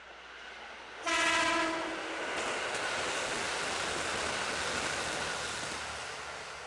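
An electric train's horn gives one short blast about a second in. Then the train runs past with a steady rush of wheel and running noise that slowly fades.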